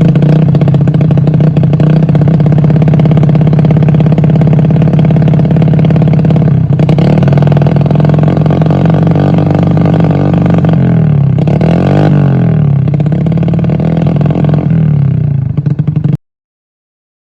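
Motorcycle fitted with a JRT aftermarket exhaust running at a steady idle, revved up and down a few times past the middle. The sound cuts off abruptly near the end.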